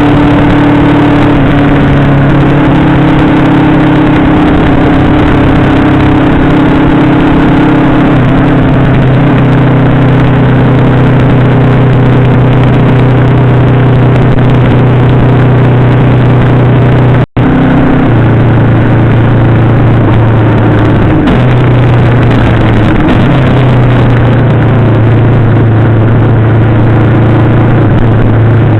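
Yamaha VMAX 1700's V4 engine running while the motorcycle is ridden, recorded by a camera mounted on the bike. The engine note holds steady and shifts in pitch a few times, near 8 s and again around 21 and 23 s. The sound cuts out for an instant about 17 seconds in.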